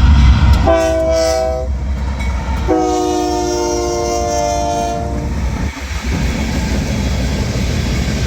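Diesel locomotive air horn sounding a chord of several notes at once: one short blast about a second in, then a longer blast from about three to five seconds. It plays over the heavy rumble of a passing train, which is loudest at the start.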